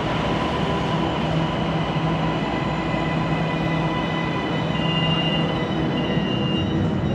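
Siemens Inspiro metro train running along the line, heard from inside the carriage: a loud, steady rolling noise of wheels on rail, with steady tones from the running gear over it. The uploader calls this rolling noise weird.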